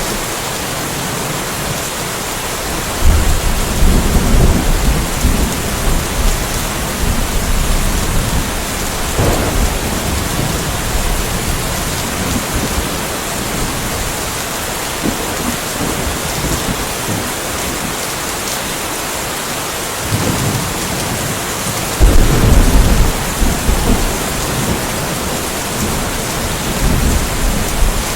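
Steady rainfall hissing throughout, with rolling thunder rumbling in twice: a long roll starting about three seconds in, and another, louder, about twenty-two seconds in.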